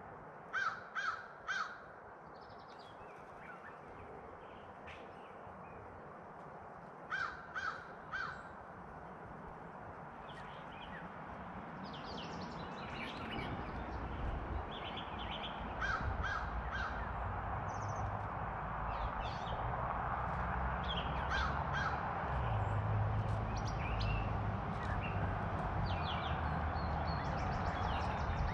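A crow cawing in two runs of three harsh caws, with small birds chirping throughout. A low rumbling noise builds up through the second half.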